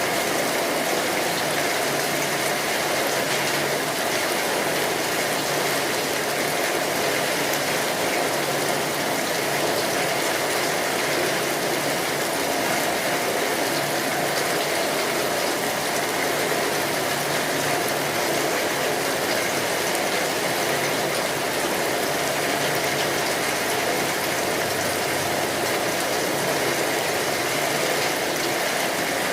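Steady rainfall, a dense, even hiss of drops that holds the same level throughout.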